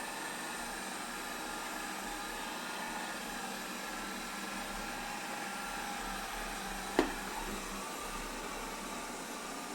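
Robot vacuum running: a steady motor and fan whine with the brush noise under it, and a single sharp knock about seven seconds in.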